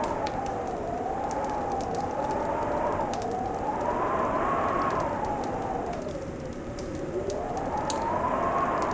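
Wintry wind howling, its pitch slowly rising and falling, over a wood fire crackling with scattered small pops.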